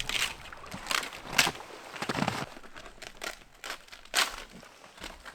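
Footsteps crunching in packed snow, an irregular series of crisp crunches about once a second.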